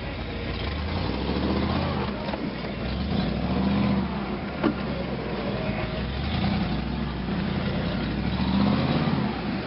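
Truck engine running under load, revs rising and falling about three times as it is backed through deep ruts, with one sharp knock about halfway through.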